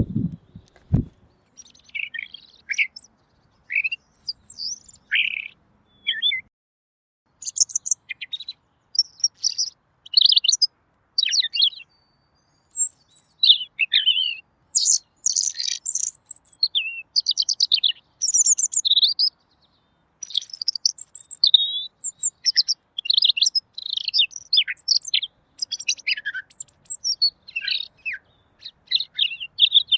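Pekin robin (red-billed leiothrix) singing: clear, quick, varied warbling phrases in rapid succession, broken by short pauses. A low thump sounds right at the start.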